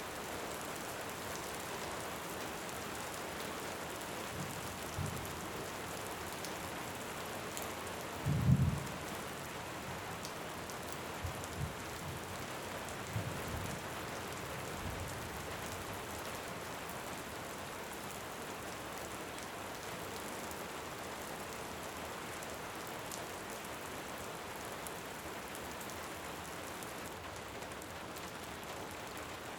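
Steady rain with a few short, low rumbles of thunder, the loudest about eight seconds in and smaller ones a few seconds either side.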